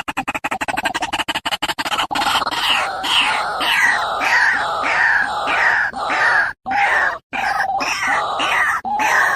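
Harsh bird calls repeated about twice a second, loud and strongest in the mid-to-high range. They start about two seconds in, after a rapid stuttering pulse.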